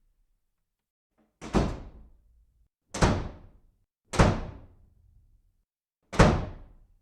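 A door slammed shut four times in quick succession, each slam a sharp bang that dies away within about a second.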